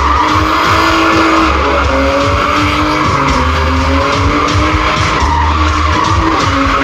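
A drift car's engine held at high revs, its pitch wavering up and down, with tyres skidding on the surface.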